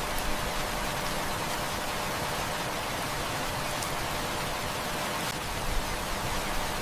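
Heavy rain falling, a steady even hiss, with a few faint clicks here and there.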